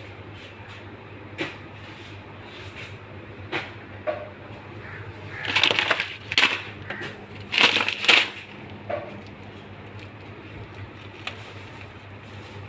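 Scattered clicks and knocks of something being handled, with two short louder spells of rustling clatter in the middle, over a steady low hum.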